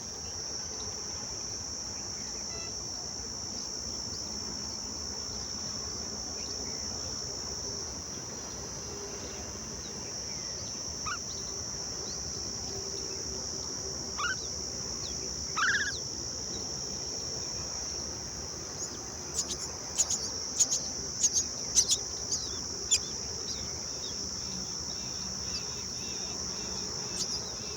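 Steady high-pitched chirring of crickets, with mynas calling over it: a few single rising calls in the middle, then a quick run of short, sharp calls a few seconds later.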